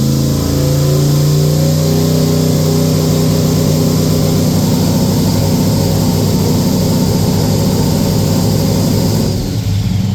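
Turbocharged LS V8 in a lowered GMC pickup held at full throttle against the transbrake: the engine runs at steady high revs while the turbo builds boost. The throttle comes off about nine seconds in and the upper hiss drops away.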